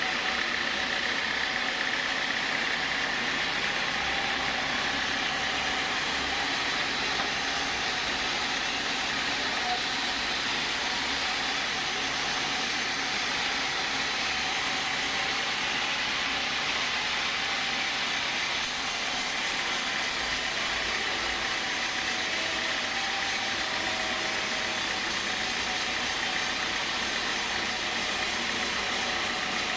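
Sawmill machinery running steadily: a continuous mechanical drone with a steady high whine.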